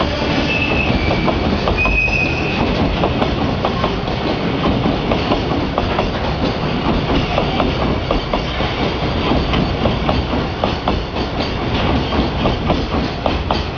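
Container freight wagons rolling past, wheels clattering steadily over rail joints, with brief high wheel squeals in the first couple of seconds.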